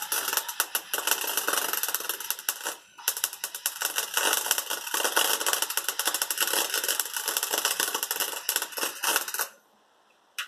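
Wire-feed welder's arc crackling, with a brief break about three seconds in and a sudden stop near the end. The welder is on its maximum setting on a rusty exhaust, and its user reckons it is too weak, melting only the wire without fusing into the metal.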